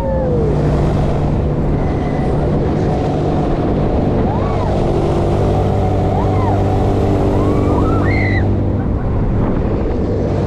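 Fairground thrill ride in motion: wind rushes over the microphone over a steady machinery hum that grows stronger in the middle. A few short rising-and-falling cries come through over it.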